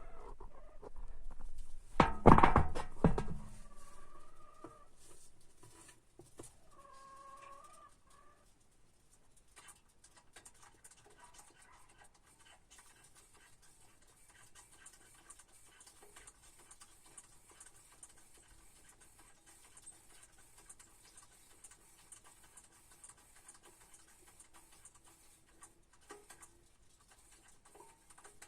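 Chickens clucking in short pitched calls, with a loud knock about two seconds in; the calls stop after about eight seconds, leaving only faint ticks and quiet.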